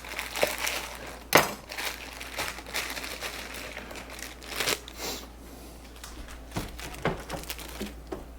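Plastic packaging crinkling and rustling as it is handled, with scattered clicks and a sharper knock about a second and a half in.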